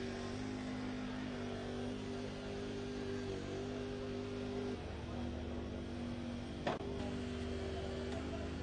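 Steady engine hum that shifts slightly in pitch a few times, with one sharp click about two-thirds of the way through.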